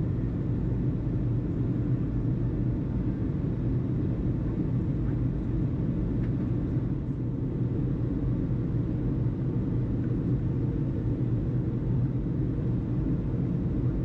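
Steady low rumble with no radio transmissions, even and unchanging throughout.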